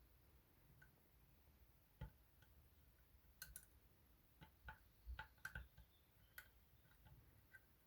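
Faint, irregular small clicks and taps of a lock pick and tension tool working inside a Union 3G110 five-lever lock, as the levers are probed one by one.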